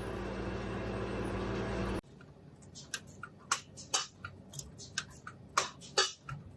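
Factory machinery running with a steady, pitched hum that cuts off suddenly about two seconds in. After the cut come irregular light clicks and taps, roughly one or two a second.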